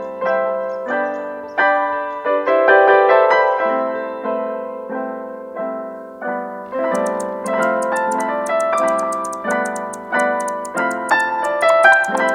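Gentle background piano music, notes struck in a steady pulse and left to ring; about halfway through a fast, high ticking joins the piano.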